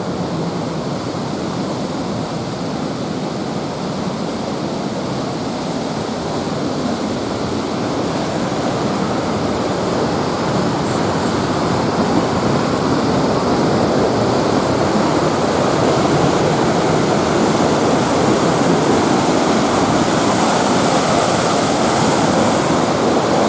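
Steady rush of cascading river water, growing gradually louder through the second half.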